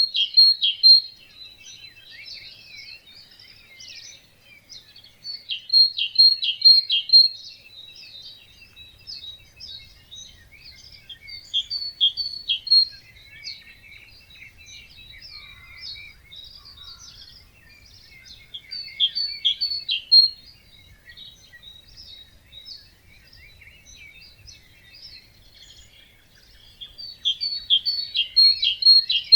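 Morning chorus of several songbirds at a wetland, with chirps and trills throughout. One bird repeats a loud short phrase of a few quick notes about five times, every six to eight seconds.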